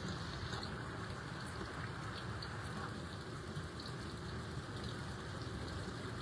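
Steady water noise, with faint scattered ticks like drops landing.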